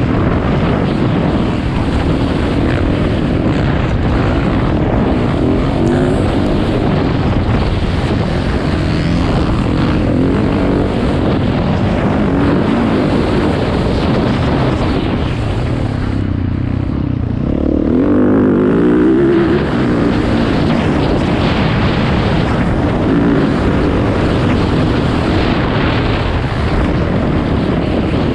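Motocross dirt bike engines running and revving, loud and continuous, rising and falling in pitch. One grows louder for a moment about eighteen seconds in.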